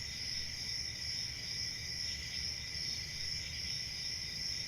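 A recorded chorus of crickets at night: a steady, unbroken high-pitched chirring with several pitches layered together.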